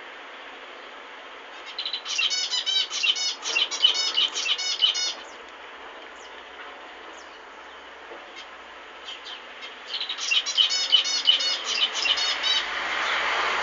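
Zebra finches singing and calling: a burst of rapid, repeated chirps about two seconds in, and another about ten seconds in, over a steady hiss.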